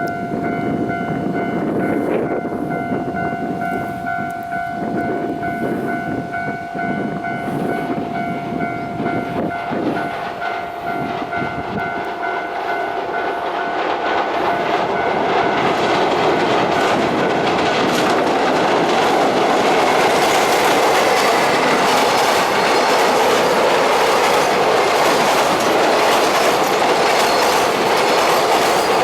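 Freight train hauled by an EF510 electric locomotive passing on a railway bridge: the rumble and wheel clatter build from about halfway in and stay loud to the end. Steady high warning tones from the level crossing alarm ring through the first half.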